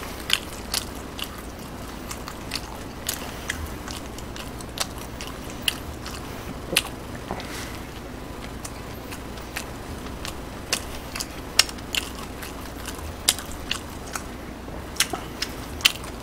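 A person chewing a fried-chicken burger close to the microphone, with irregular sharp wet mouth clicks and smacks a few times a second.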